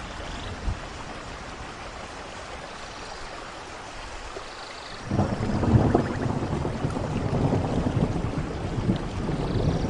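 Steady rain, with a rumble of thunder breaking in suddenly about halfway through and rolling on, growing louder toward the end.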